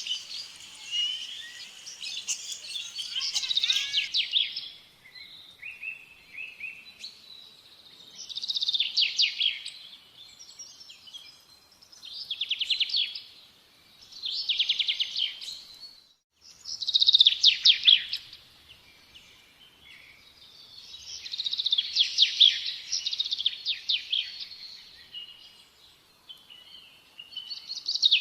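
Birds chirping in repeated high chattering phrases, each lasting a second or two, with a new burst every two to three seconds.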